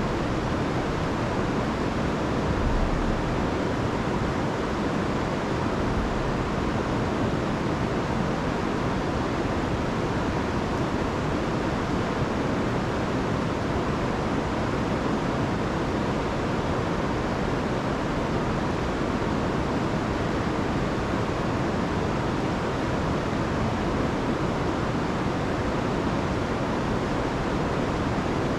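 Rain-swollen river rushing steadily over falls, a continuous full roar of water, with some low rumble near the start.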